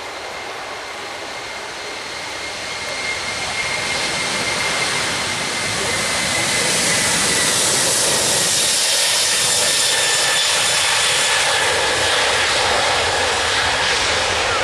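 Jet airliner's engines passing overhead: a rushing roar that grows louder over the first several seconds and then holds, with a high turbine whine that slowly drops in pitch.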